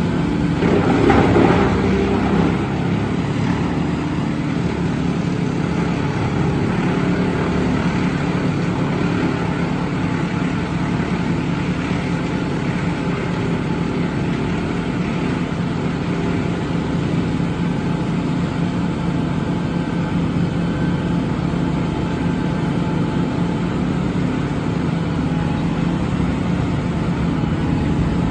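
Western Star heavy truck's diesel engine idling steadily, with a brief louder swell about a second in.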